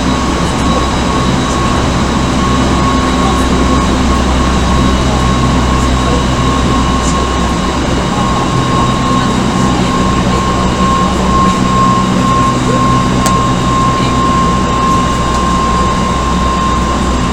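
Odakyu 1000 series electric train with Mitsubishi GTO-thyristor VVVF inverter control, heard from inside the car while running: steady wheel-and-rail rumble with a steady high whine that sinks slightly in pitch near the end.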